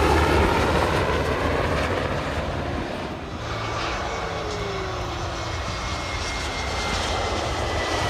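Airplane engines running, a steady rushing roar that eases off about three seconds in and then slowly builds again, with a faint falling whine.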